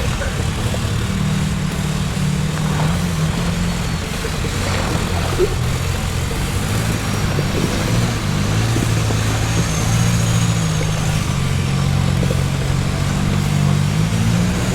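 Suzuki Jimny's engine working hard and revving up and down as it attempts to climb a steep muddy cutting.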